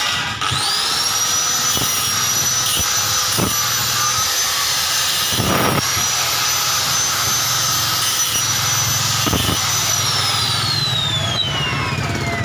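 Electric motor of a homemade coconut grater built from a used water-pump motor, switched on and spinning up to speed with a high steady whine, then switched off about ten seconds in and winding down with a falling whine.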